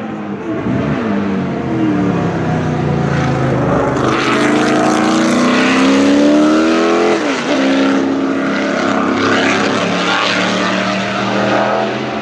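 Racing car engine on track: the pitch falls as it slows, then climbs under acceleration and drops sharply with an upshift about seven seconds in, then runs on steadily.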